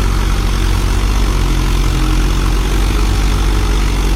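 Tractor's diesel engine running steadily and loud.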